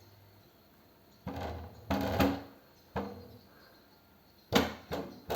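A drum being hit by a cat in irregular single knocks, each with a short low ring, then a quicker run of strikes near the end.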